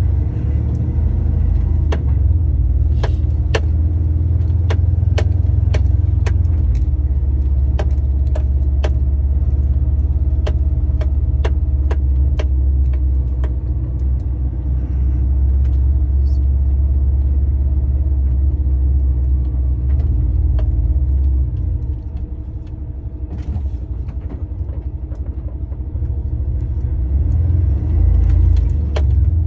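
Lorry's diesel engine running at low speed, heard from inside the cab, with a run of sharp clicks about twice a second through the first half. The engine note drops back about two-thirds of the way in and picks up again near the end.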